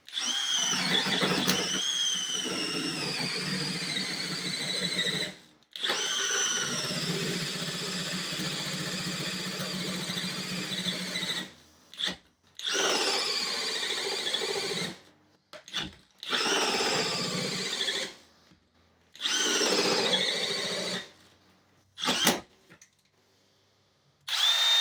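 Power drill turning a 3-inch hole saw as it cuts through the floor, in a series of runs of a few seconds each with short stops between, getting shorter toward the end. Each run starts with a high whine that slides down in pitch as the saw bites and the drill slows under load.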